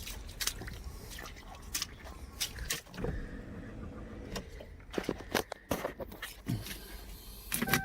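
Scattered clicks and knocks over a steady low rumble, with a steady electronic tone starting right at the end.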